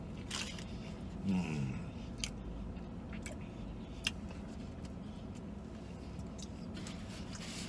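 A man chewing and biting into the bread end of a chicken sandwich: scattered small wet mouth clicks, with a short falling hum about a second and a half in.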